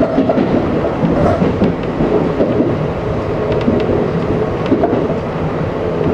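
Tobu 800-series electric train running along the track, heard from inside the driver's cab: a steady rumble of wheels and running gear with a few faint clicks.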